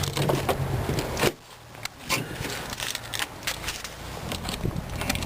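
Scattered clicks, knocks and light rattles of things being handled inside an SUV's rear cabin. A low rumble cuts off suddenly about a second in and comes back near the end.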